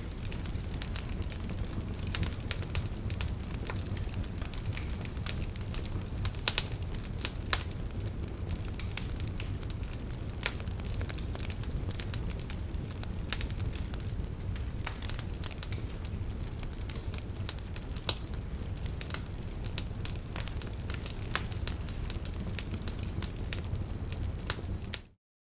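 Wood fire burning in a fireplace: irregular crackles and sharp pops over a low, steady rumble of the flames. The sound cuts off suddenly near the end.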